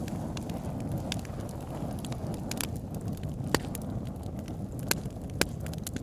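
Wood fire burning in a fireplace: a steady low rumble of the flames with scattered sharp crackles and pops, a few louder snaps in the second half.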